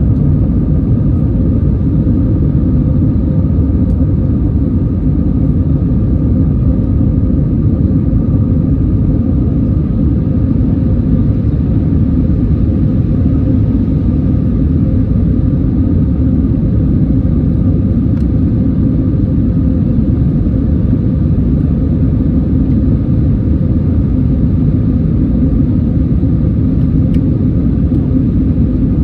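Airliner cabin noise: a steady low rumble from the jet engines and airflow, with a few faint steady engine tones held over it.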